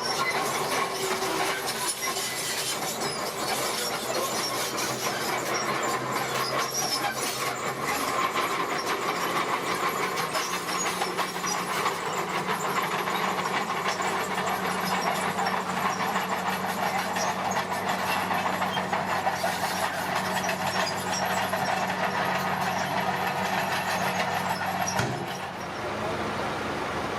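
D41P bulldozer's diesel engine running steadily under work, with the clatter of tracks and blade, heard from the machine itself. The sound drops briefly near the end.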